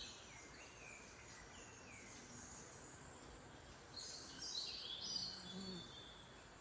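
Wild birds singing over a faint outdoor background: a few falling chirps in the first couple of seconds, then a busier spell of high calls about four to six seconds in.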